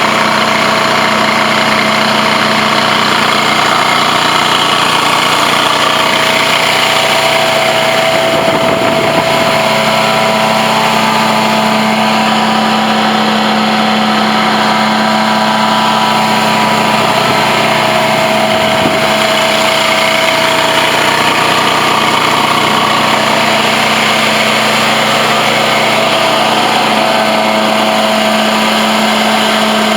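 Blue Baron Compact 45 truck-mount carpet extractor running steadily under working pressure, an engine-driven machine with a constant hum. The low hum wavers briefly twice, about nine and nineteen seconds in.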